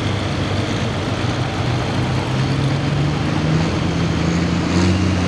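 John Deere 4450 farm tractor's six-cylinder diesel engine running ahead of its pull, its pitch rising gradually as it revs, with a further step up near the end.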